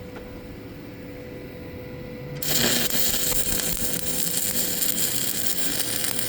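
Stick welding arc struck about two and a half seconds in, then burning steadily with a crackling hiss: an ESAB Handyarc welder running a 1/8-inch 7018 rod. Before the strike there is only a faint steady hum.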